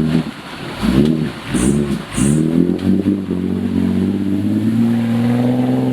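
Off-road 4x4 engine revved in a quick series of throttle blips, each rising and falling. From about three seconds in it is held at steady revs that climb slightly near the end.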